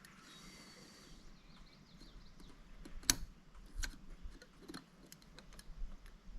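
A few light clicks and taps of hand tools and engine parts being handled during engine reassembly, the sharpest about three seconds in.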